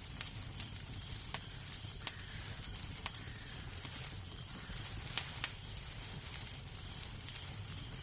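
Wood fire crackling in a fireplace: scattered sharp pops and snaps, the two loudest about five seconds in, over a steady low rumble and soft hiss.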